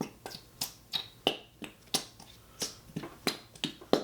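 Sticky, wet smacking clicks of glue being worked between gloved fingers, about three sharp smacks a second.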